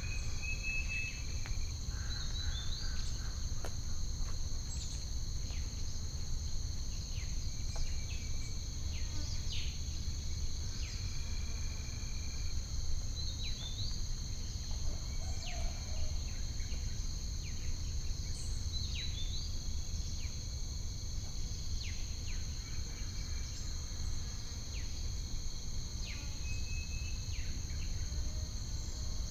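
A steady, shrill insect chorus of continuous high trills, with scattered short bird chirps over a low steady rumble.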